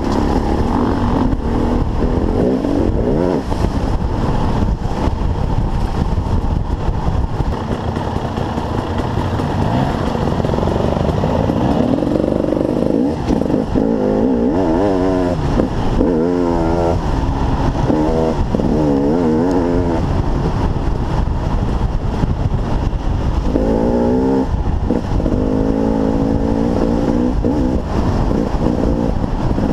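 KTM 300 EXC Six Days two-stroke enduro motorcycle engine under way on a trail, revving up and down as the rider accelerates and shifts, heard from a helmet-mounted camera. Runs of quick rising and falling revs come through the middle and again near the end.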